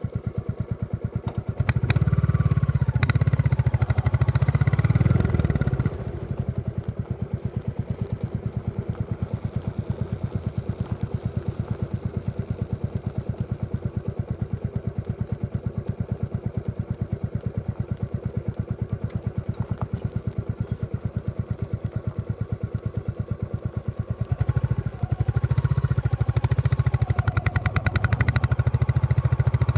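Royal Enfield Classic 350's single-cylinder engine thumping as the motorcycle is ridden: louder for a few seconds near the start, a softer, even beat for a long stretch, then louder again about 25 seconds in.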